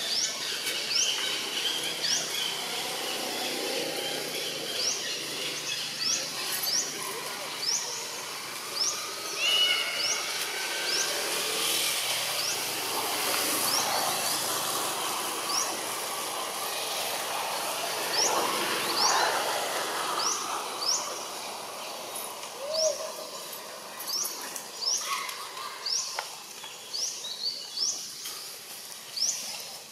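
Outdoor woodland ambience with a bird giving short, rising chirps over and over, about one a second, with a pause midway, over a steady background hiss.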